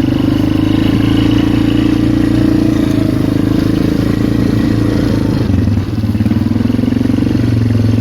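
Polaris Magnum 425 ATV's single-cylinder four-stroke engine running as it is ridden along a trail. The engine note changes briefly about six seconds in, then steadies.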